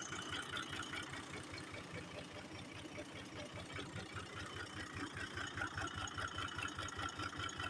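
Fiat 480 tractor's diesel engine running steadily at idle, with even firing pulses.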